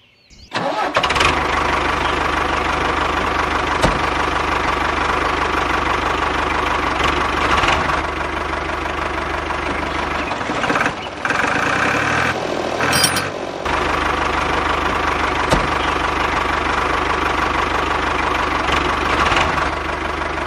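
Remote-control backhoe loader running with a steady engine-like drone that starts abruptly about half a second in. Its tone shifts for a few seconds around the middle, then settles again.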